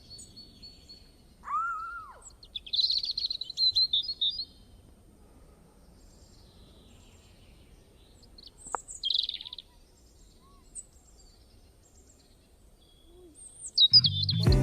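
Birds chirping and calling in short bursts separated by quiet gaps, with a single sharp click a little past halfway.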